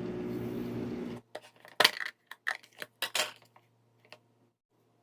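A steady hum cuts off just over a second in. Dishes and cutlery clatter after it, with two louder knocks, then it goes quiet.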